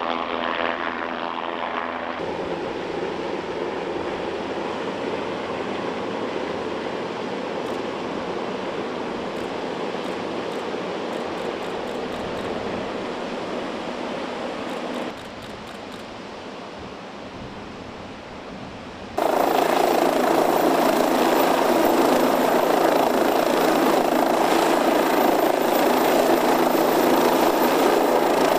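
The MQ-8C Fire Scout unmanned helicopter's rotor and turbine noise. The sound shifts abruptly between shots: it is steady at first, turns quieter for a few seconds past the middle, then jumps to a much louder, dense rush for the last third.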